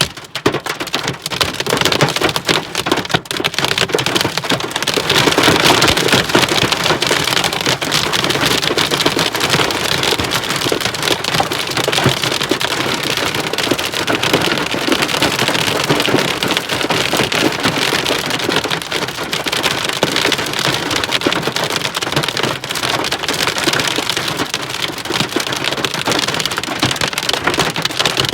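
Heavy downpour of rain mixed with hail, a dense, steady patter of countless small hard impacts that grows a little louder about five seconds in.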